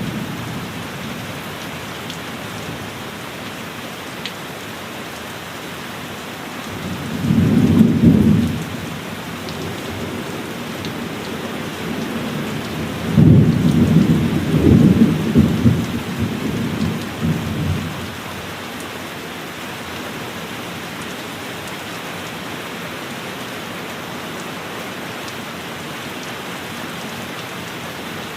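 Heavy rain falling steadily, with two rolls of thunder: a short rumble about seven seconds in, and a longer, rolling one from about thirteen to eighteen seconds.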